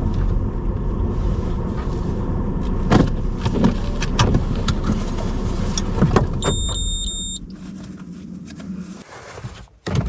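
Car driving: a steady low road-and-engine rumble with scattered clicks, a short electronic beep about six and a half seconds in, then the rumble falls away and nearly stops near the end.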